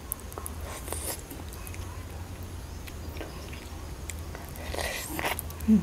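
Quiet mouth sounds of a woman chewing a soft, ripe mak phi phuan (Uvaria) fruit: small wet clicks while chewing, a louder breathy sound about five seconds in, and a brief hum just before the end.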